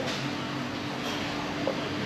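Steady background noise with a faint, even low hum.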